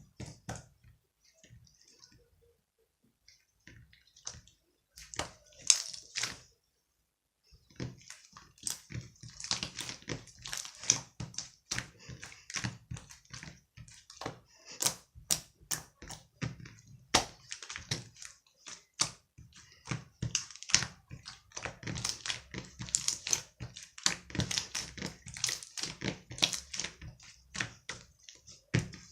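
Slime being squeezed and worked by hand, making rapid wet clicks and pops. A few scattered pops at first, then a dense, continuous run of clicking from about a quarter of the way in.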